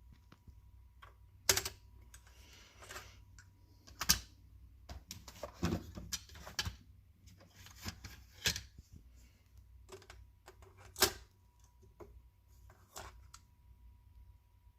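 Irregular sharp mechanical clicks and clacks, like buttons or parts being handled, with the loudest about a second and a half in, four seconds in, eight and a half seconds in and eleven seconds in, and some rustling between them. A faint steady high tone sits underneath.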